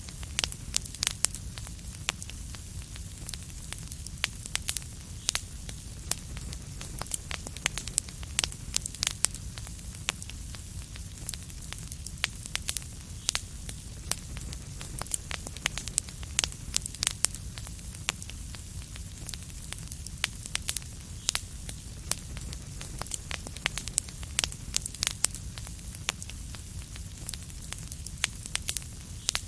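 Wood fire in a fireplace crackling, with frequent sharp pops and snaps over a steady low rumble of burning.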